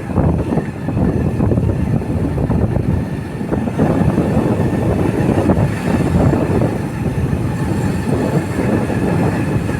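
Steady rumble of a moving ride, road and vehicle noise mixed with wind buffeting the microphone.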